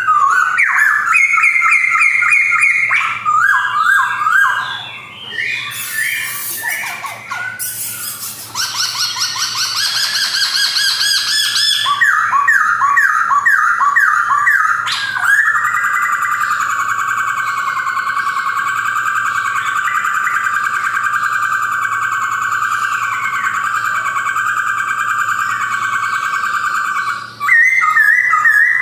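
Male black-throated laughingthrush singing a loud, varied song of quickly repeated whistled phrases, with harsher buzzy notes in the first third. About halfway through it holds one long steady warbling trill for around ten seconds before switching back to quick phrases near the end.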